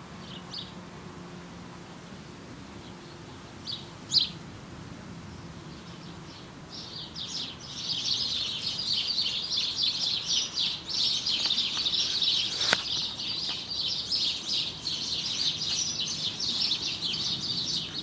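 Small birds chirping: a few short, separate chirps in the first seconds, then a dense, continuous high chirping chatter from about seven seconds on. A single sharp click sounds near the thirteenth second.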